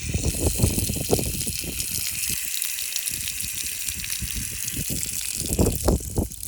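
A woman's urine stream hissing steadily onto the ground, with wind gusting against the microphone as low rumbles that swell near the end.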